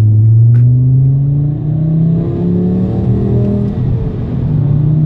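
Mk5 Volkswagen Jetta's resonator-delete exhaust with a deep drone and rumble under way. The engine note rises slowly, wavers and climbs again in the middle, then holds steady.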